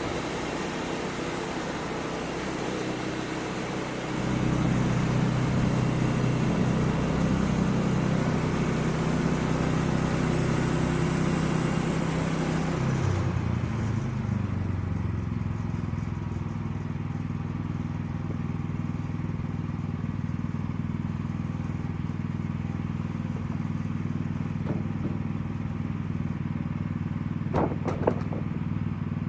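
Sawmill engine running steadily. About four seconds in it grows louder. About thirteen seconds in its pitch steps down and a high hiss stops, and it runs on at the lower note, with a couple of short knocks near the end.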